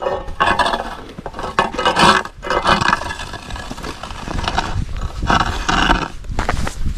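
Snow being scraped away in repeated long strokes, several scrapes one after another.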